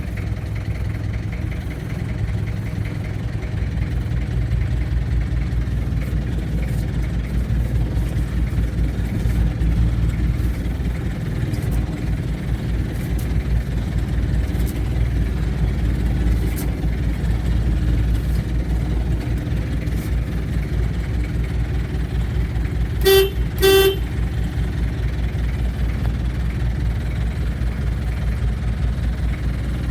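1994 Kia Ceres truck's 2.4 diesel engine idling steadily, with two short beeps of a vehicle horn about three-quarters of the way through.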